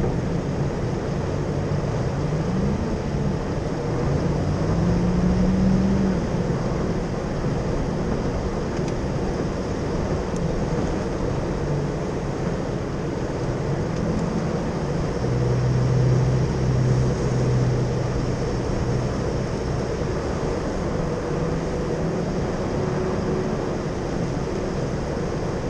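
Jeep engine running while driving along a sandy wash, over a steady rushing noise. Its pitch climbs a few seconds in and swells again, louder, about halfway through as it accelerates.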